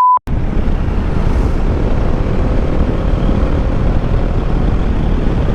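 Steady rush of wind on the microphone mixed with motorcycle engine and road noise while riding. A short, pure electronic bleep cuts off right at the start.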